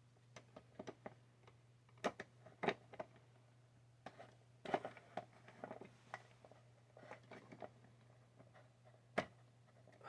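Scattered light clicks and knocks of small 3D printer parts being handled and fitted together, with four sharper knocks spread through, over a faint steady low hum.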